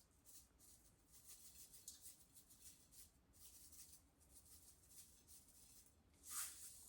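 Faint, fine rustling and light ticking of white sesame seeds being sprinkled by hand over the braised chicken wings, with a brief louder hiss about six seconds in.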